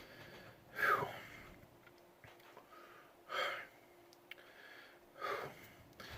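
A man's three short, sharp breaths, about two seconds apart, the first the loudest: bracing himself to bite into a superhot pepper.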